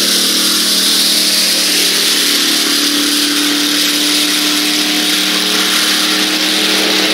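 Car engine running at a steady, unchanging pitch, with a loud hiss over it.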